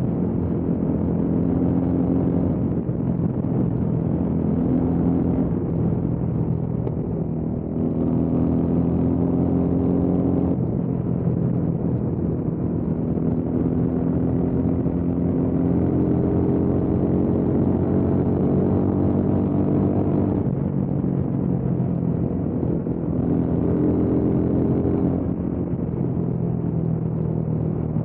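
Motorcycle engine running on the move, its note climbing slowly and changing pitch abruptly several times, over a steady rush of wind and road noise.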